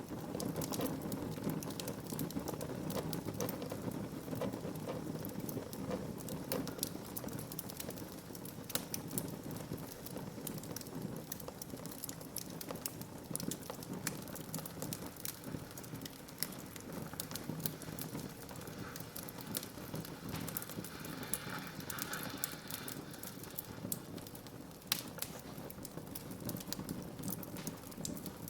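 Wood fire burning in a fireplace: a steady hiss and rumble of flames with frequent, irregular crackles and pops.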